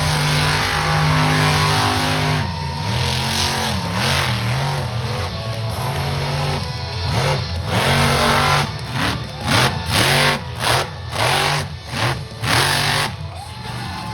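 Monster truck engine running hard, its pitch rising and falling as the throttle changes, then a string of about six quick revs in the second half.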